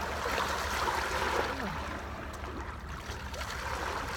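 Cold lake water splashing and trickling at the shore, a steady wash of water noise that eases a little about halfway through.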